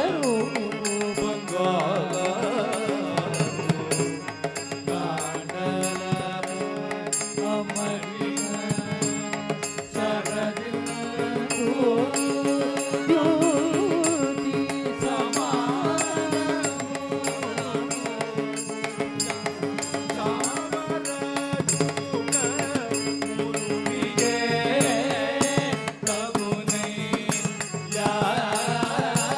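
Carnatic-style devotional bhajan music: a melody with gliding ornaments over a steady held drone, kept in time by a regular percussion beat.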